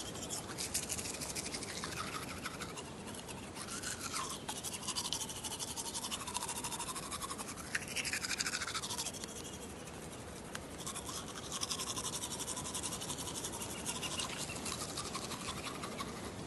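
Teeth being brushed with a toothbrush close to the microphone: rapid, continuous scrubbing strokes whose tone slides up and down as the brush moves around the mouth, easing off briefly about ten seconds in.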